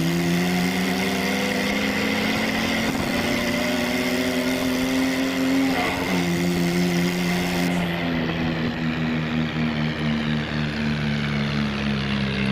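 Tractor engine sound running steadily, its pitch slowly creeping up, dropping back about six seconds in, then creeping up again.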